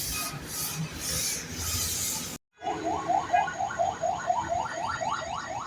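Hissing spray that pulses a few times a second, like a pressure-washer jet on a car, then after a cut a fast, even series of rising electronic chirps, about four a second, like a car alarm.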